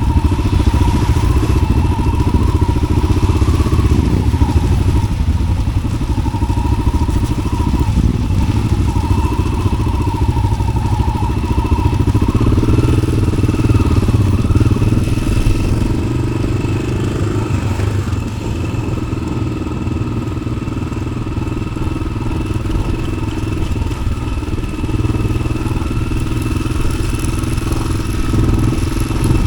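1993 Yamaha XT600's single-cylinder four-stroke engine running through an Arrow aftermarket exhaust, its revs rising and falling a little, with occasional knocks.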